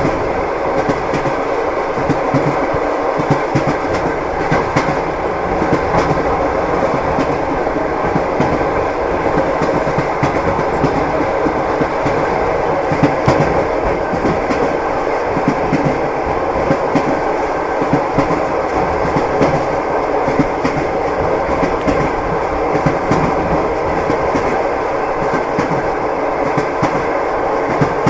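Train wheels clicking over rail joints under the steady rumble of a moving passenger railway carriage, heard from inside the compartment.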